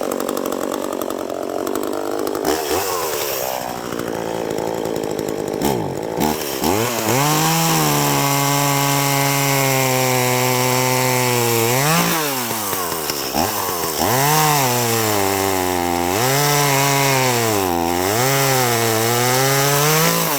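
Echo two-stroke chainsaw cutting into a tree trunk to fell it. It runs high and unsteady at first, then settles to a lower, steady pitch as the new chain bites into the wood, with the revs sagging and recovering several times in the second half.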